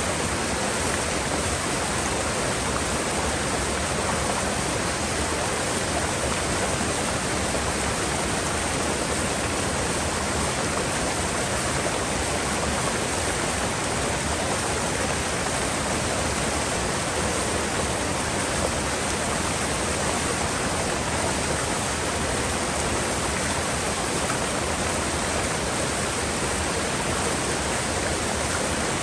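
Mountain river water rushing steadily, an even hiss of flowing water with no break or change.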